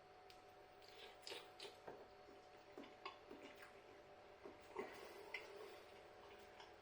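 Near silence with faint, scattered clicks and soft mouth sounds of someone eating noodles.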